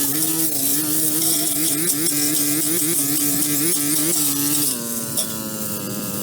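A small engine running steadily under a high hiss, its pitch wavering up and down and dropping lower about five seconds in.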